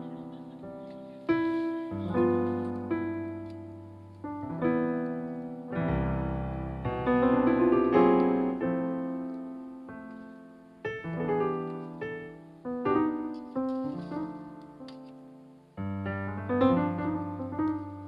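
Background piano music: notes and chords struck and left to ring out and fade.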